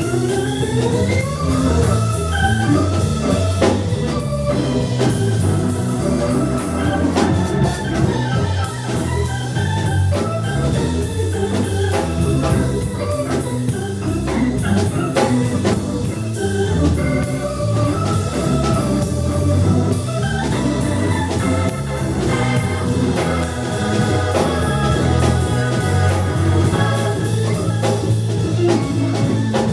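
Live instrumental band music led by an organ with a Hammond-like sound, over bass and drums, opening with a quick upward run of notes.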